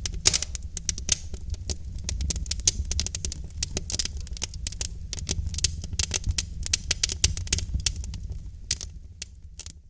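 Wood fire in a fireplace crackling, with many sharp pops and snaps over a low rumble of the flames. The sound fades out near the end.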